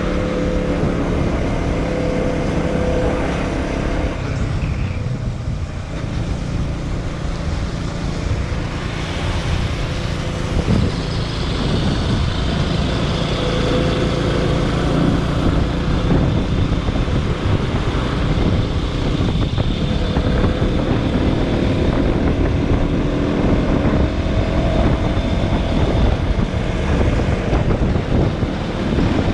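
KTM Duke motorcycle engine running under way, its note shifting as the throttle changes, over a steady low rumble of wind and road noise on the action camera's microphone.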